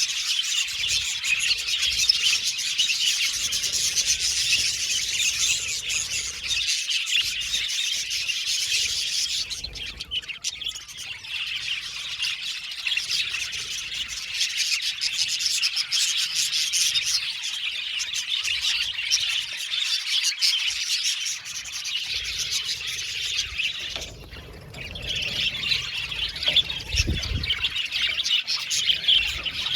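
A flock of budgerigars (budgies) chattering and chirping continuously in an aviary, many birds calling over one another; the chatter thins briefly near the middle and again about three-quarters of the way through.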